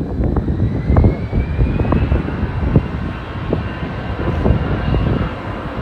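Jet aircraft engine noise: a steady low rumble, with a high whine that rises in pitch over the first couple of seconds and then holds.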